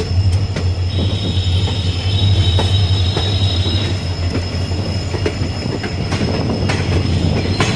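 A moving passenger train heard from on board: a steady low rumble of the wheels on the track, scattered clicks over rail joints, and a high wheel squeal from about one to four seconds in.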